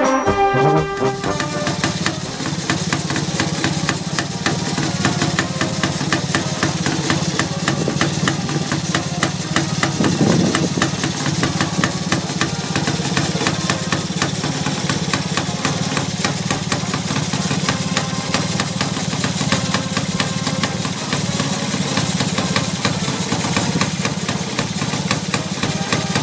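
Brass music ends in the first second, then the 342 cc Villiers single-cylinder two-stroke engine of a 1930 Walter Zt 331 motorcycle idles steadily with a fast, even firing beat, briefly louder about ten seconds in.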